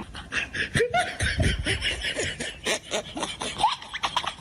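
A person laughing in quick, breathy bursts.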